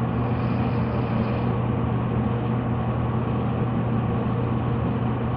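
Steady mechanical drone with a constant low hum and an even rushing noise, unchanging throughout.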